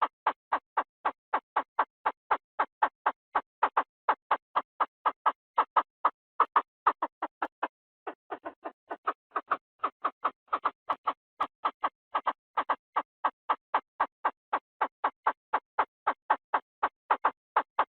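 Lure recording of a นกกระทาทุ่ง (field quail/francolin) calling: a steady string of short, clipped notes, about three or four a second, briefly softer about eight seconds in.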